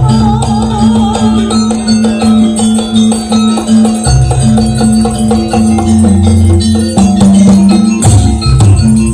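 Live Javanese jaranan ensemble playing dance music: fast drumming and metal percussion over held, ringing gong-like tones, with a wavering melodic line near the start.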